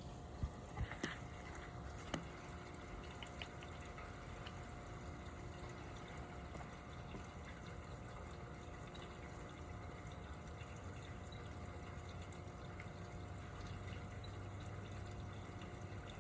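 Steady rain with scattered drips, including a few sharper drops or taps in the first couple of seconds. A faint steady hum runs underneath.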